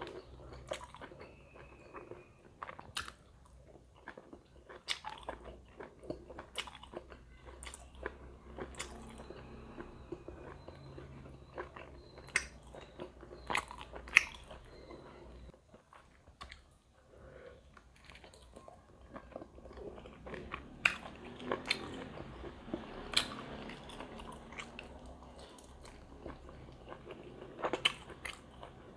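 A person chewing and biting into large steamed pork momos, with irregular sharp mouth clicks between the chews.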